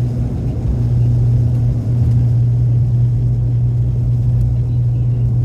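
ATR-72 twin turboprop engines and propellers running, heard from inside the cabin: a steady low hum at one pitch over a rumble.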